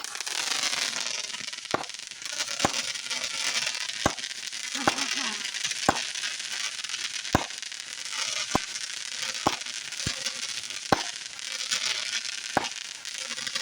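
A consumer firework burning with a steady hiss and crackle, broken by sharp pops about once a second, then cutting off near the end.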